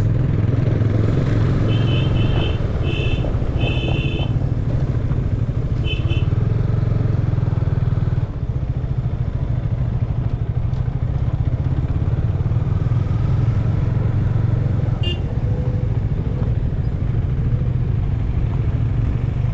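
Motorcycle engine running steadily on the move. A few short high-pitched beeps sound in quick groups between about two and six seconds in.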